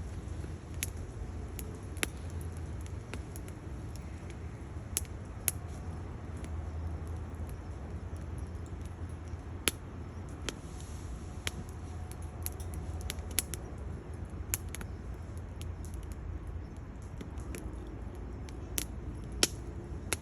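Wood fire crackling in a stainless-steel Bushbox XL twig stove: sharp irregular pops and snaps every second or two over a steady low rumble.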